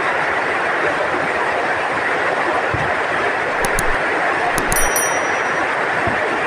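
Heavy rain pouring down steadily, with a few short clinks and low thumps in the middle.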